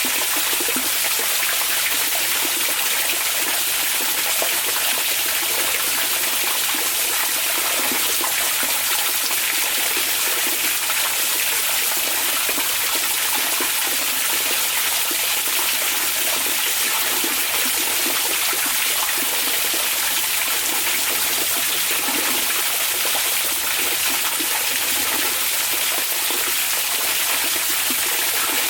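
Hot spring water pouring steadily into an onsen bath: an even, continuous rush and splash with no breaks.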